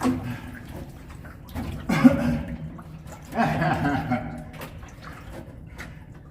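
Water sloshing and splashing around a person wading and a small flat-bottom boat being walked through a road culvert, with a hollow, echoing ring.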